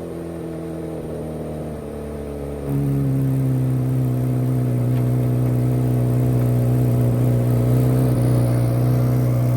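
Chevrolet C8 Corvette Z06's 5.5-litre flat-plane-crank V8 running at a steady pitch. It is quieter for the first couple of seconds, then grows suddenly louder at about three seconds in and holds steady.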